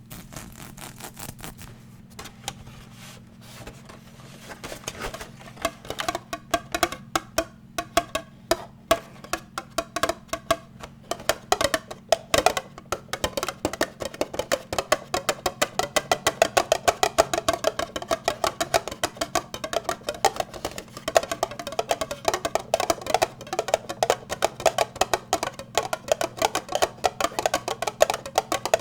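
Fast tapping on an unidentified object, many quick taps a second. It starts light and sparse, then grows louder and denser from about five seconds in.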